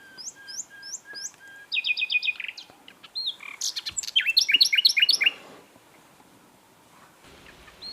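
Common nightingale singing: varied phrases of whistles and rapid repeated notes. The loudest is a fast run of notes about halfway through, followed by a pause of about two seconds before a new phrase begins at the end.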